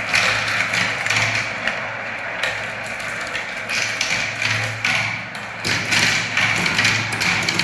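Marbles rolling down spiral ramp tracks: a continuous rolling noise with many quick clicks and taps as the balls run along the track and knock against its edges and each other.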